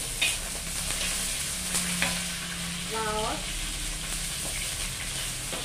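Garlic, shallots and red chilli frying in oil in a wok over a gas flame, a steady sizzle, with the metal spatula clicking and scraping against the wok a few times.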